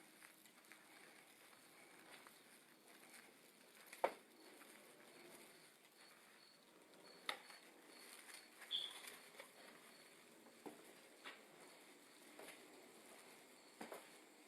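Near silence: room tone with a few faint, scattered clicks and knocks, the loudest about four seconds in.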